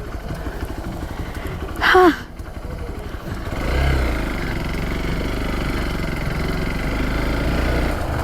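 Dirt bike engine running, picking up revs about three and a half seconds in and then holding steady. A short loud shout comes about two seconds in.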